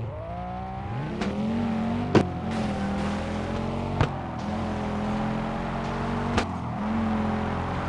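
A race car engine revving up and then running steadily, its pitch rising at the start and shifting up and down a few times. Several sharp clicks cut through it, the loudest a little over two seconds in.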